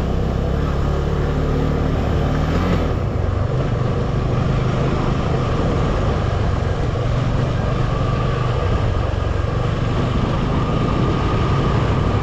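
A vehicle engine running steadily under a loud, even rushing noise; the engine's pitch shifts about three seconds in.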